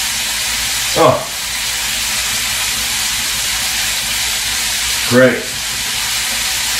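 Chicken breasts frying prosciutto side down in a hot skillet, a steady sizzle.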